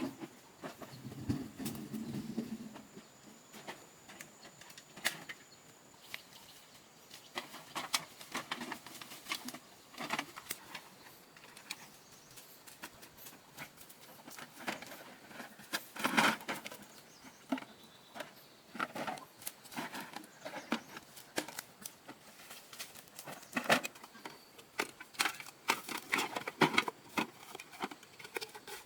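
Small objects being handled: irregular light clicks, taps and rustles, with a few sharper knocks around the middle and near the end.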